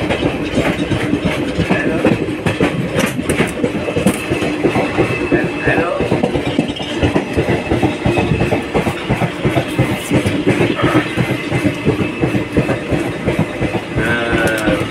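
Unchahar Express passenger train running along the track, heard from aboard a coach: a loud, steady rumble with a fast, dense rattle of the wheels on the rails.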